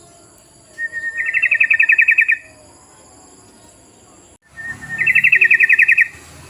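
Yellow-vented bulbul (trucukan) calling twice. Each bout is a short note followed by a fast rattling trill of about a dozen notes a second, the 'ropel' call used as a lure.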